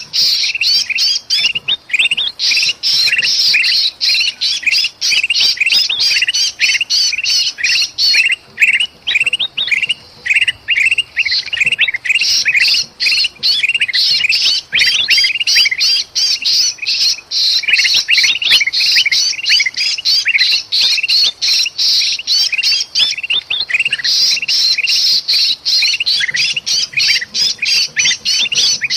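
Bulbuls in an agitated chorus of rapid, harsh chattering calls mixed with the distress calls of a trapped bulbul: a dense, almost unbroken stream of high calls, the kind of commotion played to lure birds in.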